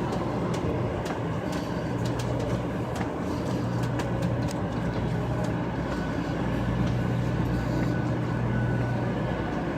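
Steady low hum of a 500 Series Shinkansen train standing at the platform, with scattered light clicks and taps over it.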